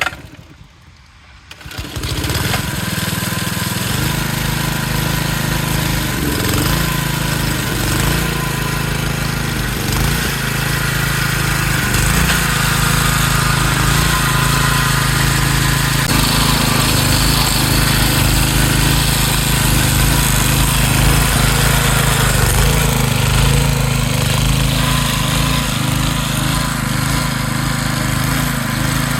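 Small Briggs & Stratton single-cylinder engine (model 80242) on a lawn edger starting about two seconds in and then running steadily, its freshly rebuilt carburetor now letting it run.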